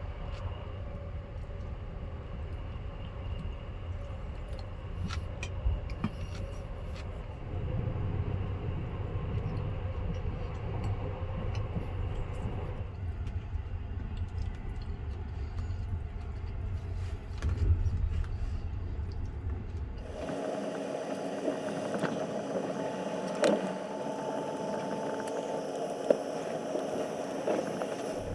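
Running noise of the Sunrise Izumo sleeper train heard inside a private compartment: a steady low rumble, with a few light clicks of chopsticks on a plastic bento tray. About two-thirds of the way in, the rumble drops away and a steadier hum with a few held tones takes over.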